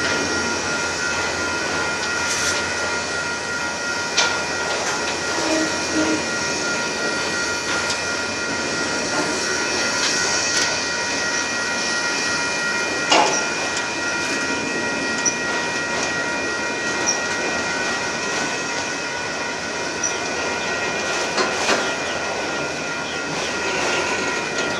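Freight train of enclosed autorack cars rolling past: a steady rumble of steel wheels on rail with a thin, steady high-pitched squeal over it, and a few sharp clanks, the loudest about halfway through.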